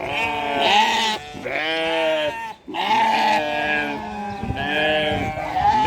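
A large herd of chyangra bleating, many animals calling over one another in a near-continuous chorus of wavering bleats.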